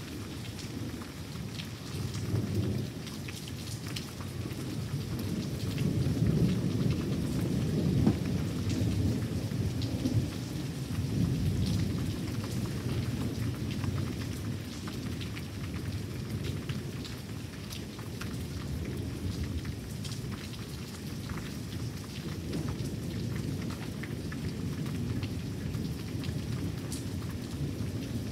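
Thunderstorm: steady rain falling, with long rolling thunder that swells to its loudest partway through and then eases to a low, continuing rumble.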